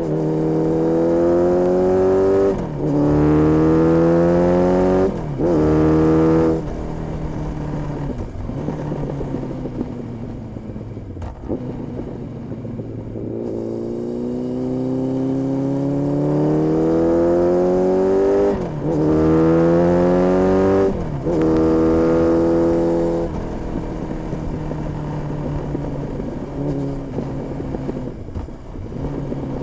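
Honda CB1300S inline-four with an Ixrace aftermarket exhaust pulling hard through three gears. The note climbs and drops back at each upshift, then eases off to a lower, quieter drone. About halfway through it repeats: another three-gear pull with two upshifts, then easing off again.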